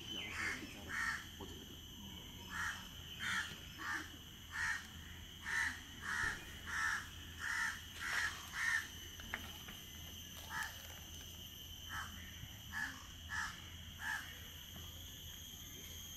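A bird giving a long series of short, repeated calls, about one or two a second, with a pause of about two seconds in the middle, over a steady high drone.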